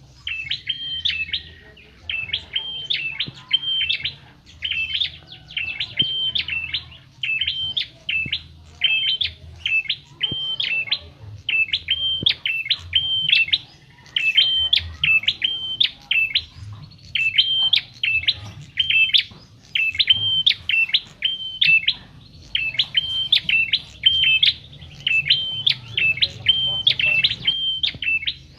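Prenjak kepala merah, a small Javan songbird, singing short bright chirping phrases of a few quick high notes, repeated about once a second with brief pauses, over a faint low hum.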